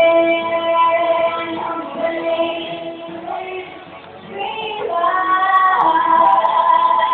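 Singing with music: a voice holding long sustained notes, fading down about four seconds in and then coming back.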